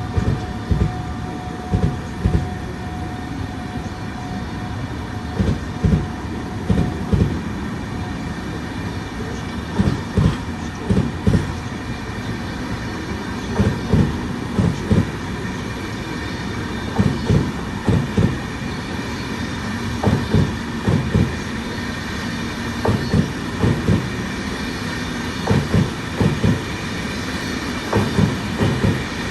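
Electric-hauled Intercity passenger train rolling past, its wheels knocking over rail joints in repeated groups of clacks as each pair of bogies crosses, over a steady rumble.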